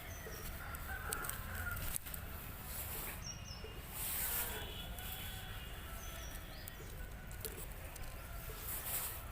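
Rooster crowing, with short high chirps recurring every few seconds.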